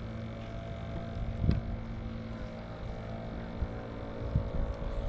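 Wind buffeting the microphone, with a steady low hum underneath and a single knock about a second and a half in.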